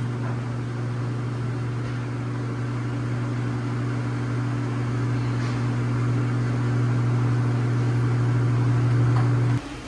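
Microwave oven running with a steady low hum while it heats food, cutting off abruptly near the end.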